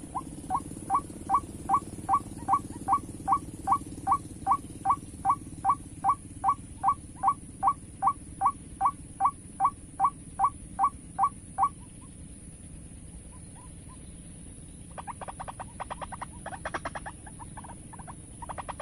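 White-breasted waterhen calls: a long series of evenly repeated notes, about three a second, that stops about twelve seconds in; a faster, rattling chatter starts a few seconds later.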